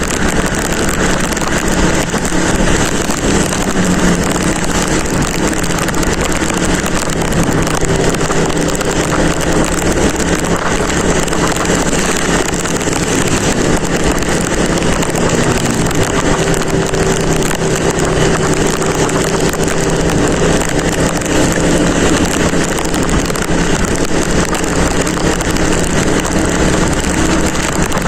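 Motorcycle engine running steadily on the move, under heavy wind noise buffeting the microphone.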